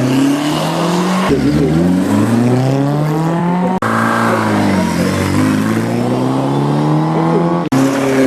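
Classic car engines revving up and easing off as they drive a gymkhana course, the pitch climbing and falling again and again. The sound switches abruptly to a different car three times.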